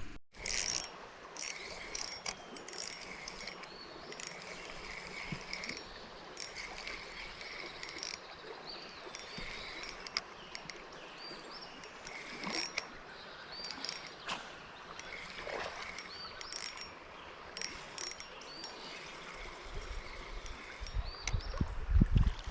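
Creek-side ambience: a steady wash of flowing water with insects calling in repeated pulses and small birds chirping. Near the end come low knocks and sloshing of water.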